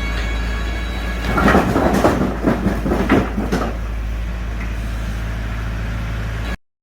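A motor hums steadily while a run of loud knocks and clatter sounds for about two seconds; everything cuts off suddenly near the end.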